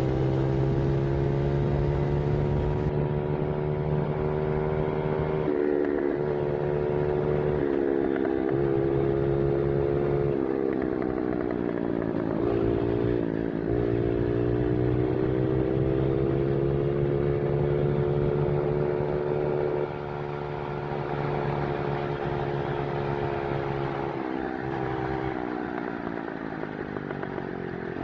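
Dirt bike engine running under load, its pitch climbing slowly and then dropping again several times as the throttle and gears change; a little quieter over the last several seconds.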